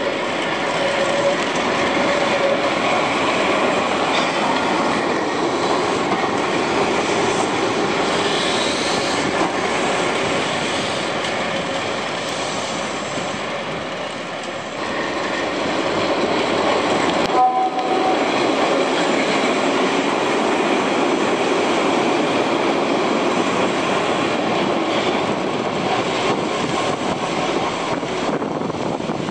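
Keihan 700-series two-car electric train running past on street-running track: steady wheel and rail noise with some clatter and brief tonal squeals on the curve. A little past halfway there is a short sharp sound with a brief tone, and another two-car train then approaches on the same track.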